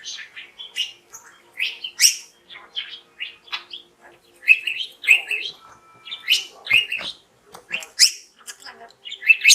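Budgerigar chattering: a quick, unbroken run of short, high chirps and squeaks, several a second.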